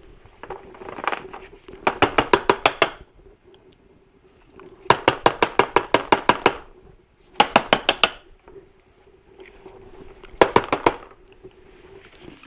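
Four quick runs of sharp clicks, about eight a second, each run lasting one to two seconds and the longest near the middle, with faint scraping between them, from hand work on an engine's oil strainer and its parts.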